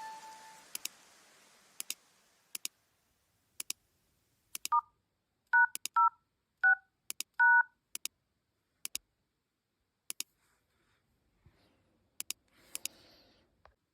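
Smartphone dialer keypad playing five touch-tone beeps in quick succession, whose tone pairs spell *#06#, the code that brings up the IMEI. Short sharp clicks come before, between and after the beeps.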